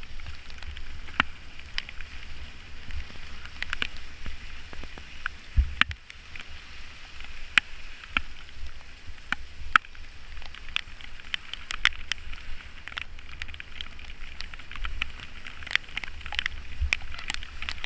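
Cycling in the rain, heard from a bike-mounted or handheld microphone: a steady low wind rumble on the mic and an even hiss of wet riding noise, dotted with many scattered sharp ticks.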